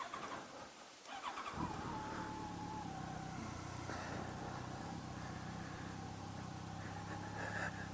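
Motorcycle engine cranked by the electric starter and catching about a second and a half in, then idling steadily.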